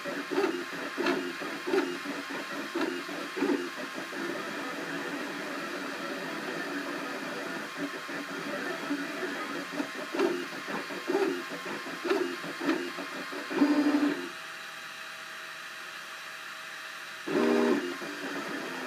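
Cubify 3D printer's stepper motors buzzing in quick pitched moves as the print head travels, over a steady fan hiss. About 14 seconds in the moves stop for about three seconds, leaving a faint steady hum, then one louder move follows.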